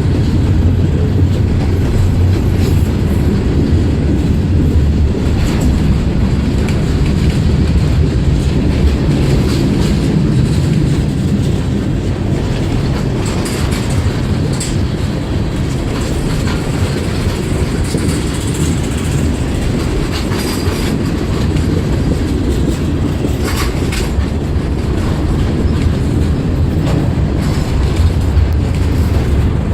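CSX freight train rolling slowly past: a steady low rumble with scattered clacks of wheels over the rail joints.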